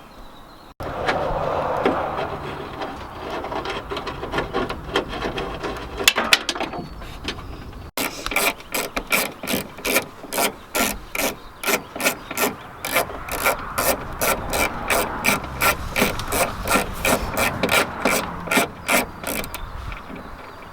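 Hand ratchet wrench clicking as bolts in a car door are turned, with denser mechanical rattling first and then a steady run of about two to three clicks a second through most of the second half.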